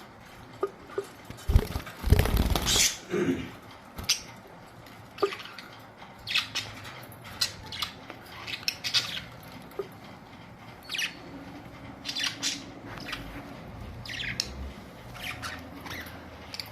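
Budgerigars chirping: many short, high chirps come one after another, with a louder noisy burst about two seconds in.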